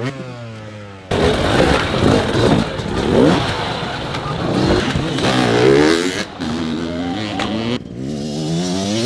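Dirt bike engines revving hard, pitch climbing and dropping in repeated bursts, with rough noisy stretches and sudden changes between short clips.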